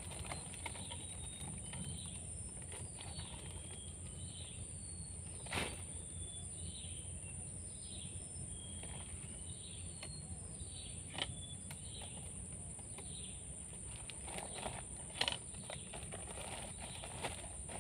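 Birds calling in short, falling whistled notes, one every half second or so, over a steady high-pitched buzz. Three sharp clicks come about six, eleven and fifteen seconds in.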